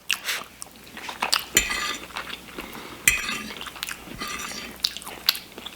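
A metal utensil clinking and scraping against a dish several times while food is scooped up.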